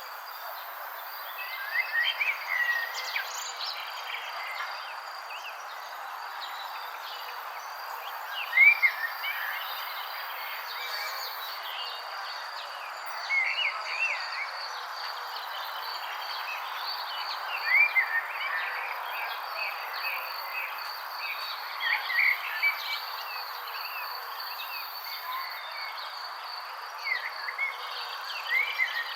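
Wild songbirds chirping in short clusters every few seconds over a steady hiss of outdoor ambience and a steady high-pitched insect drone.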